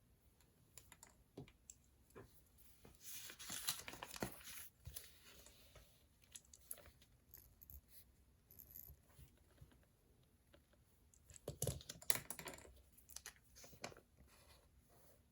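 Faint desk sounds of someone studying: scattered light clicks and taps, with two short bursts of paper rustling, one a few seconds in and one about twelve seconds in.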